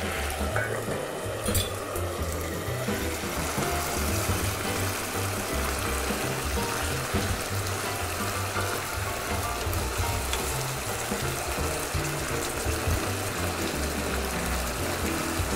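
Rabbit pieces sizzling in their reducing sauce in a pan on a gas burner, stirred with a spoon, over steady background music.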